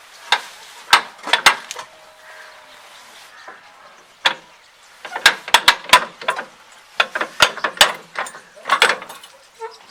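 A series of irregular sharp knocks and clicks, several in quick clusters around the middle and near the end, with no steady engine running underneath.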